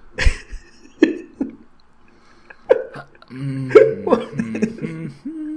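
Men laughing: a few short, sharp bursts of laughter, then a longer run of voiced laughing and half-words from a little past halfway.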